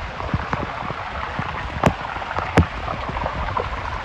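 Heavy rain falling steadily, with many individual drops striking close by as short ticks and two louder sharp drop hits a little under two seconds in.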